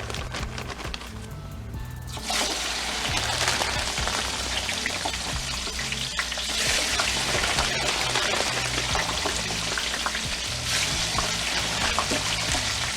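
French fries deep-frying in hot oil: a dense, steady sizzle with scattered crackles that swells louder about two seconds in.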